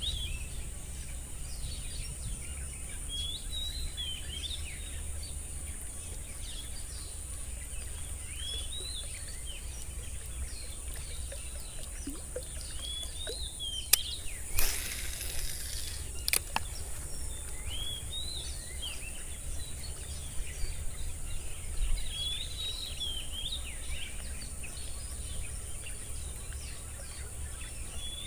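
Birds chirping again and again, short call after short call, over a steady high-pitched drone. About halfway a few sharp clicks and a brief rush of noise break in.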